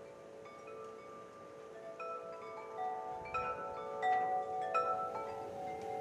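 Wind chimes tinkling, many ringing tones struck at irregular moments and overlapping, growing busier and louder about halfway through.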